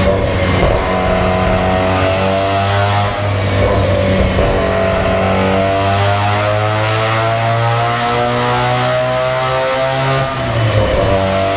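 Mazda RX-7 FD's engine running under load on a chassis dynamometer, its pitch climbing steadily over several seconds. It drops back briefly a few seconds in and again near the end, over a steady low drone.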